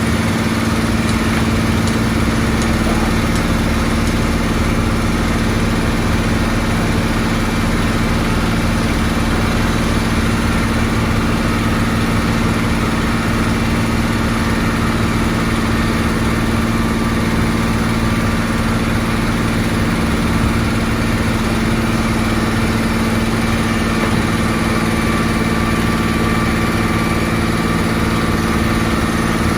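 Engine of heavy road-construction machinery running steadily at an even speed, with a constant hum.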